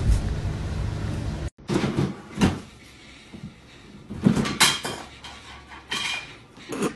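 A low rumbling noise that cuts off abruptly about a second and a half in, then a series of irregular sharp knocks and bangs, like a cupboard door being banged.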